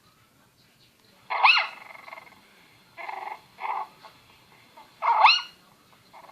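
A young animal's high-pitched calls: four cries, the first and last rising and falling in pitch, the two in between shorter and flatter.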